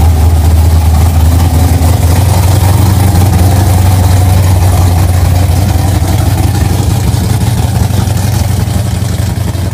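1970 Chevrolet Chevelle SS's V8 engine running with a deep, steady exhaust rumble as the car rolls slowly away, the sound easing off a little near the end.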